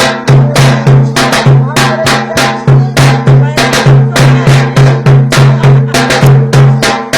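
Turkish folk dance music (oyun havası) with a loud, driving drumbeat of about three to four strikes a second under a sustained melody.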